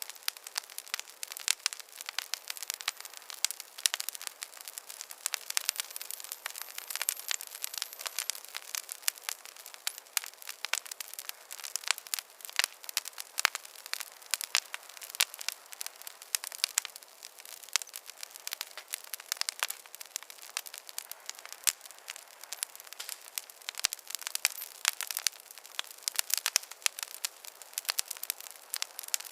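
Wood fire crackling in a fireplace: a continuous run of irregular, sharp pops and snaps over a soft hiss, with no low rumble.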